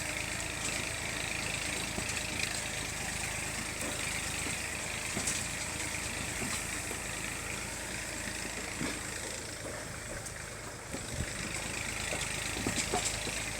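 Small farm tractor's engine running steadily as it drives along, with a few short knocks.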